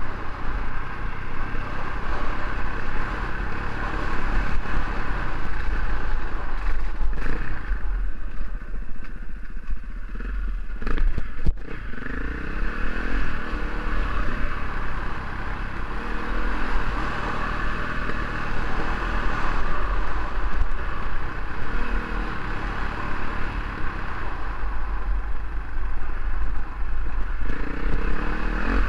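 KTM dual-sport motorcycle engine running under way on a dirt trail, its pitch rising and falling several times as the throttle is worked, over steady road and wind noise.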